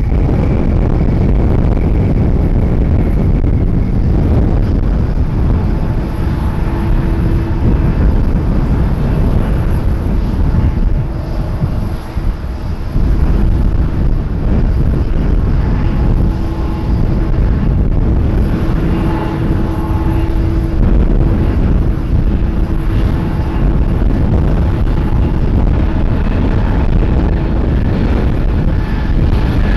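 Airliner engines on approach: a loud, steady rumble with faint whining tones, dipping briefly about twelve seconds in.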